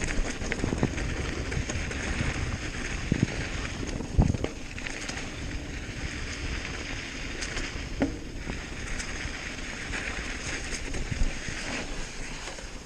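Hardtail mountain bike rolling over a dirt trail: steady wind noise on the microphone with the bike rattling along, and sharp knocks about four and eight seconds in.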